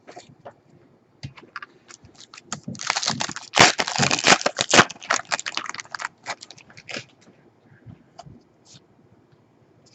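Wrapper of a trading-card pack being torn open and crinkled, a dense crackling for about two seconds in the middle with scattered crinkles and clicks around it.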